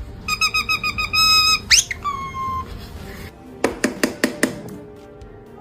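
Parrot whistling: a quick run of about eight short, even squeaky notes, a fast rising whistle, then a single falling note, followed by a few sharp clicks about two thirds of the way through.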